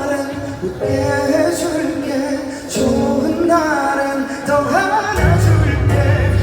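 Live pop music with a singing voice over the accompaniment; a heavy bass line comes in about five seconds in.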